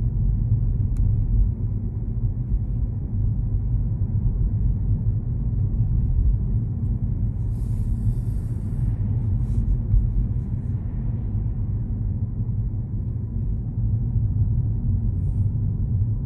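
Car driving: a steady low rumble of engine and road noise, with a brief hiss about halfway through.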